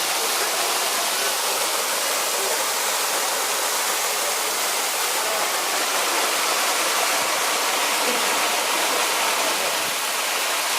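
Waterfall on the Kobalar-Su mountain river pouring steadily: an even, unbroken rush of falling water.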